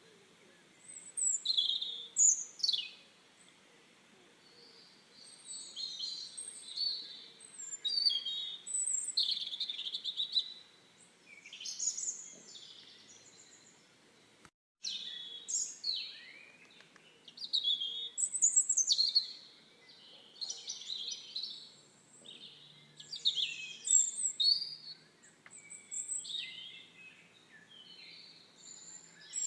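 Songbirds chirping and singing in short, repeated phrases and trills, with a brief dropout about halfway through.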